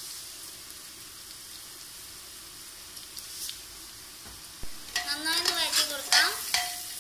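Grated carrot and onion sizzling in hot oil in an aluminium pressure cooker, stirred with a steel spoon. It is a steady frying hiss, and from about five seconds in it turns louder and more uneven as the spoon scrapes and stirs.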